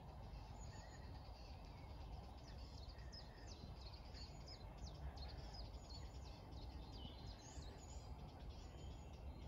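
Faint birdsong in woodland: small birds calling with many short, high chirps and trills scattered throughout, over a low steady rumble.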